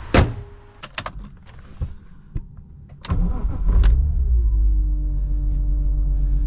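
A few sharp clicks, then about three seconds in the BMW E46 M3's straight-six engine cranks and fires, its revs flaring and falling back to a steady idle.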